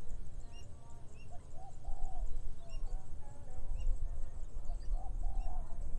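Birds calling over a rice field: a short, lower call phrase comes a couple of times, and a brief high chirp repeats about once a second. Under them runs a steady low rumble of wind on the microphone.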